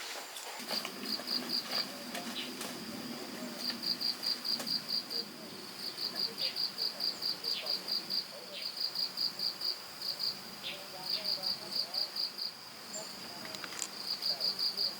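Insects chirping: repeated trains of rapid high-pitched pulses, about six a second and each train lasting a second or so, over a steady high trill.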